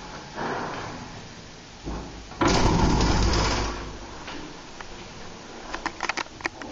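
Old railway station freight elevator operating, with mechanical running and door noise. It has a short rush of noise early on, a loud rushing stretch of about a second near the middle, and a quick run of sharp clicks near the end.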